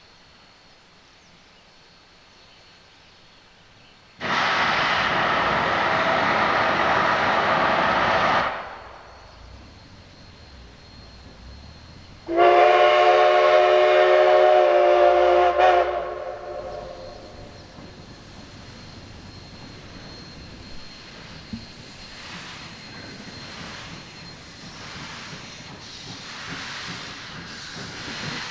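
Coal-fired steam locomotive: a loud hiss of released steam for about four seconds, then one blast of its chime steam whistle lasting about three and a half seconds, followed by a lower, uneven rumble.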